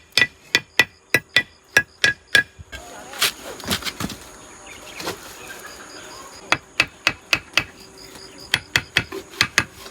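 Repeated hammer strikes with a metallic ring, about three a second, during brickwork. The strikes stop for a few seconds after about two and a half seconds, with only a few scattered knocks, then start again near the middle and run on.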